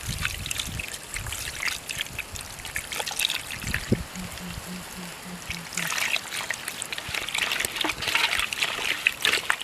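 Water trickling and splashing as it is poured, growing heavier and busier from about six seconds in.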